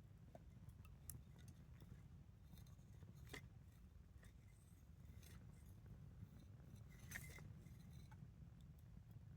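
Faint crackle of a wood campfire: a few scattered pops and snaps, the clearest about three and seven seconds in, over a low steady rumble.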